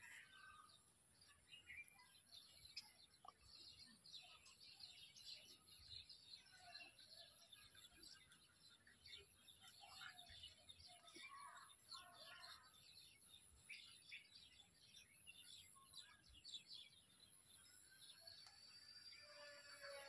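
Faint birds chirping, many short quick calls over a steady faint high hiss. Near the end a held pitched sound with several tones comes in.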